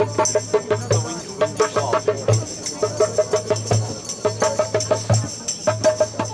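Rhythmic folk percussion music: quick drum strokes with tambourine jingles over a low tone that pulses in spells of about a second.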